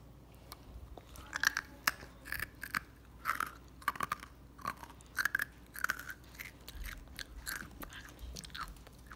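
A person chewing dry dog kibble close to the microphone: irregular crisp crunches, about two a second, starting about a second in.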